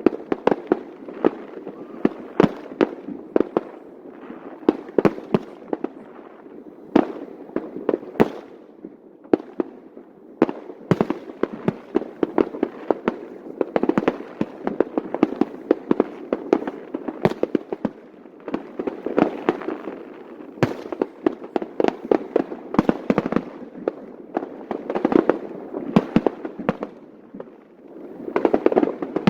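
Aerial fireworks exploding in a rapid, irregular barrage of sharp bangs over a continuous crackle, with the bursts bunching into thicker volleys now and then.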